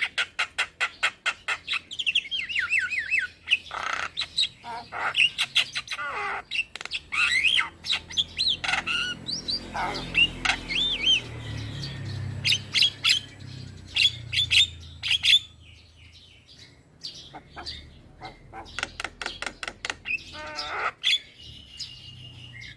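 A young male Javan myna singing vigorously: fast runs of sharp clicking and rattling notes mixed with repeated warbled whistles. A faint low hum sits under the middle part, and the song eases for a few seconds before another burst near the end.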